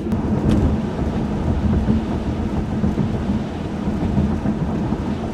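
Steady low rumble of a 1995 Chevrolet Monte Carlo driving on a wet, snowy road, heard from inside the cabin: tyre and road noise over the engine's faint hum, with one light click about half a second in.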